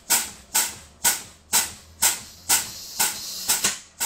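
Blue Bird school bus air brakes exhausting in short hisses, about two a second, as the brake pedal is pumped to bleed the air pressure down toward the point where the parking brake valve pops out.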